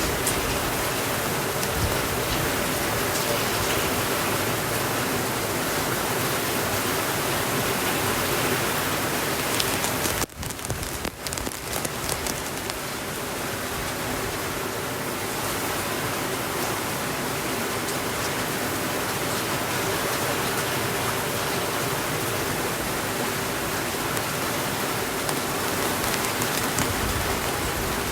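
Steady rainfall, an even hiss with scattered drop ticks. About ten seconds in, the sound briefly drops away and returns.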